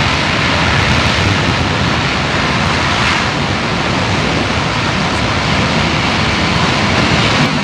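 C-17 Globemaster III's four turbofan engines running at high power in reverse thrust on the short landing roll, a loud, steady rushing roar.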